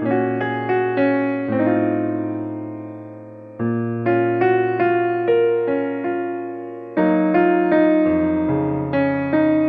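Background piano music: a slow, gentle melody of single notes over low held bass notes, each note struck and fading.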